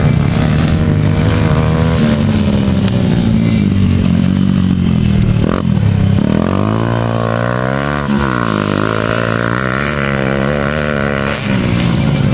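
Motocross bikes' engines running and revving, fairly steady at first, then rising and falling in pitch repeatedly from about halfway through.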